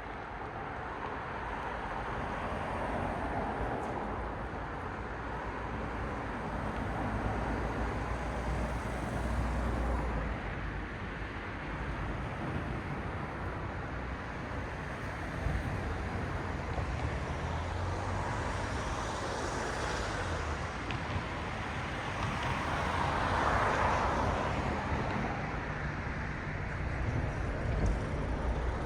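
Cars passing one after another on a road, tyre and engine noise swelling and fading in waves, loudest about two-thirds of the way through, over a low rumble of traffic.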